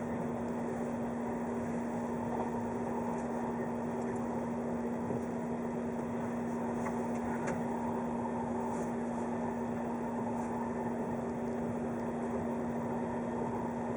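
Running noise of a JNR 583 series electric train, heard from inside the carriage: a steady rumble with a constant hum underneath and a few faint ticks.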